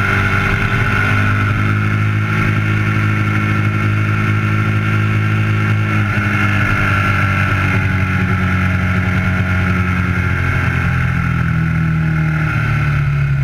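Twin-cylinder race motorcycle engine running at a steady moderate speed, heard from an onboard camera with wind noise over it. The engine note drifts gradually lower over the last few seconds.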